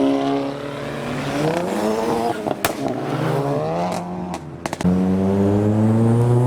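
Car engines accelerating past. One engine's pitch climbs and drops as it revs through the gears, with two sharp cracks in the middle. About five seconds in, a louder, deeper engine note comes in.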